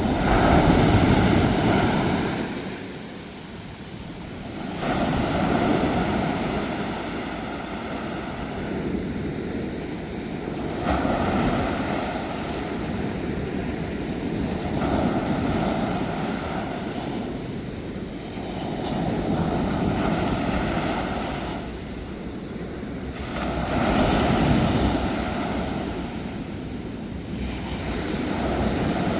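Sea waves breaking and washing up on a shore, the surf swelling and falling back every four to six seconds.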